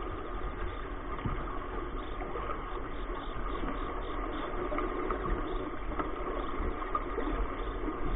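Car engine idling with steady road and cabin noise, heard from inside the car while it is stopped in traffic.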